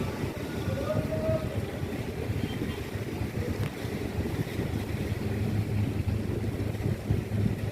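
Large ship's engine rumbling low and continuously, with a steady hum that grows stronger near the end.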